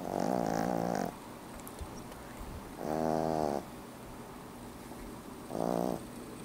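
An 11-week-old French bulldog puppy snoring in its sleep: three short, pitched snores at an even rhythm about every two and a half to three seconds, the last one shorter.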